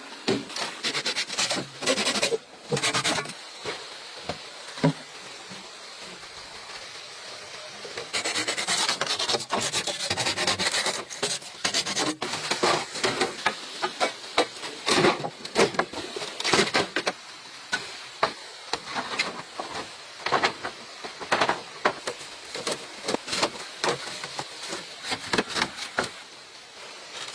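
Bamboo being worked by hand: irregular knocks and clicks with rubbing and scraping of the wood, a steadier scraping stretch about a third of the way in.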